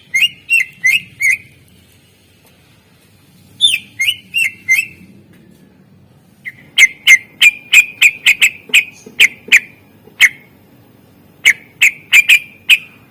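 Green leafbird (cucak ijo) singing: short, sharp whistled notes repeated in quick bursts. Two short bursts of four or five notes come first, then a longer run of about fifteen notes and a final burst of about six near the end.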